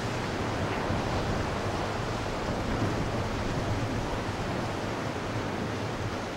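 Ocean surf washing in steadily, a continuous rush of breaking waves, with wind buffeting the microphone.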